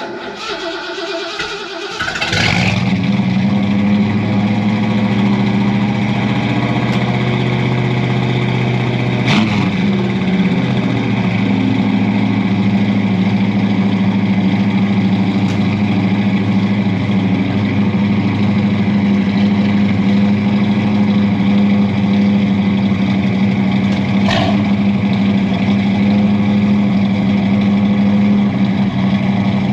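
Ford V8 pickup engine with a freshly installed exhaust cranking, catching about two seconds in, then idling steadily through the new exhaust.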